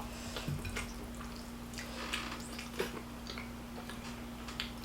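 Quiet eating sounds: chewing with scattered small clicks and smacks, over a steady low hum.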